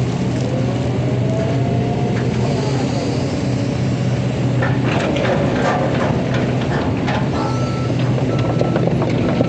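Hydraulic excavator's diesel engine running steadily, with a series of metal clanks and knocks about five to six and a half seconds in. From about seven seconds in, a machine's warning alarm beeps repeatedly.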